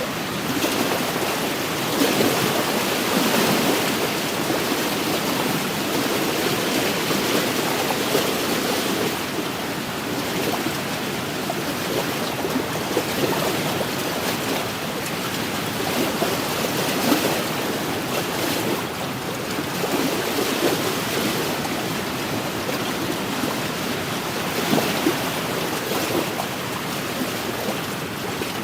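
Small wind-driven waves washing against a lakeshore in a steady hiss that swells and eases every few seconds, with wind blowing.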